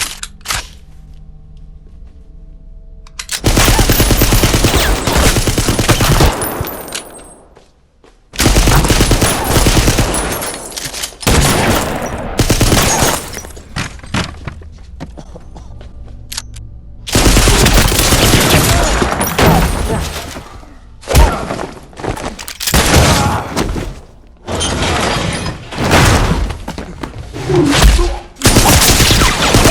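Added sound-effect automatic gunfire: repeated long bursts of rapid shots, each lasting one to three seconds, with short gaps between, starting a few seconds in after a quieter opening.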